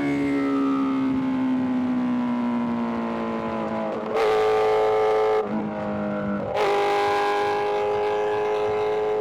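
Inline-four sport bike engine under way, heard from the bike: the revs sag slowly on a light throttle, then the throttle opens about four seconds in, closes for a second, and opens again to a steady pull.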